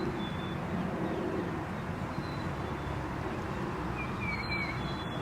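Outdoor yard ambience: a steady low background rumble with a few faint high bird chirps, and a short three-note bird call about four seconds in.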